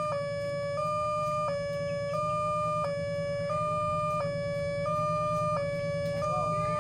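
Automatic railway level-crossing warning alarm: an electronic two-tone signal switching back and forth between a higher and a slightly lower tone about every two-thirds of a second, over a steady low hum. A few brief sliding whistles come in near the end.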